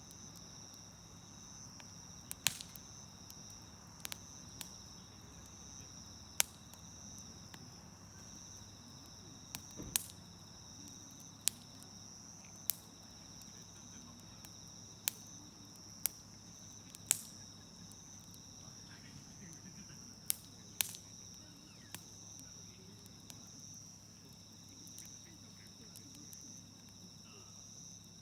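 Wood campfire crackling, with sharp irregular pops every couple of seconds, over a steady high-pitched insect trill.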